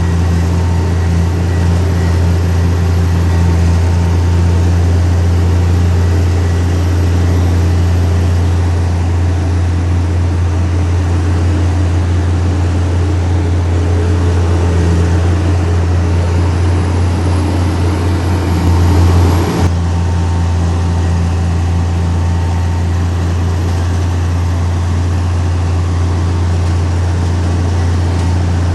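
Heavy diesel engine of earthmoving equipment running steadily with a deep, even drone. About two-thirds of the way through it swells briefly, then drops back sharply.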